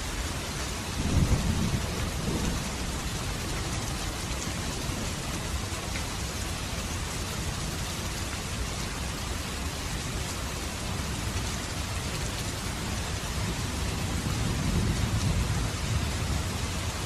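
Steady rain falling, with low rolls of thunder: a louder one about a second in and a softer one near the end.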